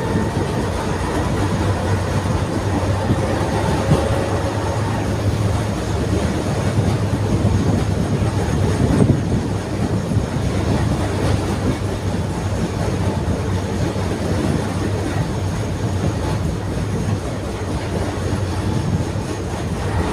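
Ust-Katav 71-631 tram running along the track, heard from on board: a steady rumble of wheels on rails with a low hum. There are a couple of brief knocks a few seconds apart and a faint whine in the first few seconds.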